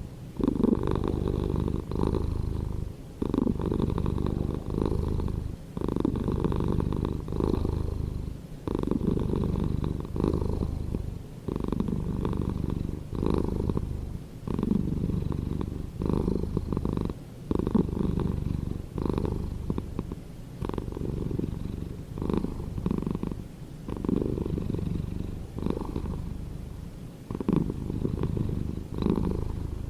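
Domestic cat purring steadily, the purr swelling and dipping with each breath in and out, about once every one to two seconds.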